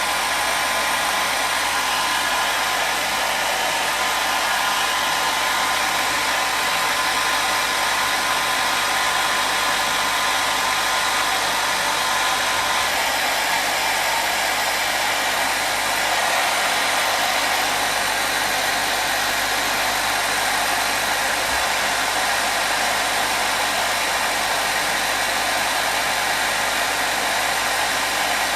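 Hair dryer running continuously: a steady blowing rush with a faint whine.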